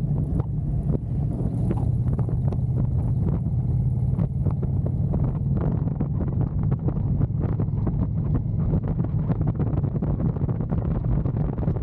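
Indian Challenger V-twin motorcycle engine running at a steady cruise, with wind buffeting the microphone in irregular gusts.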